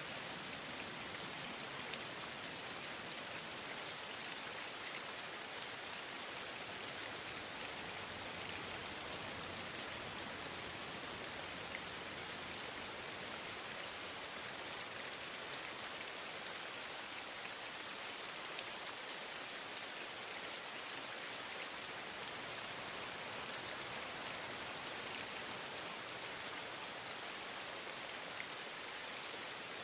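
Steady rain falling, an even hiss dotted with many fine drop ticks, unchanging throughout.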